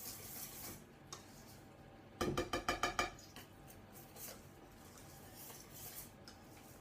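Hand whisk beating batter in a mixing bowl: a quick run of about nine clicks against the bowl a little over two seconds in, with faint scattered ticks of stirring the rest of the time.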